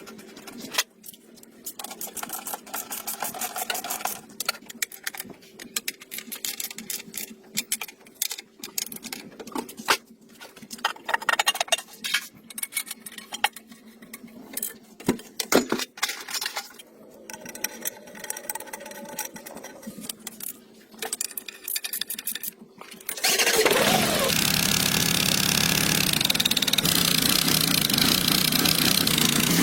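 Irregular metallic clicks, taps and rattles of work on an engine. Then, about three-quarters of the way in, the engine starts suddenly and keeps running loud and steady.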